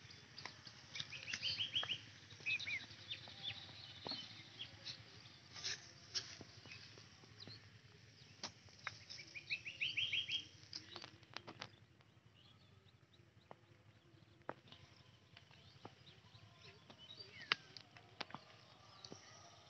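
Birds calling and chirping, with a quick run of rising notes near the start and again about halfway through, and scattered sharp clicks.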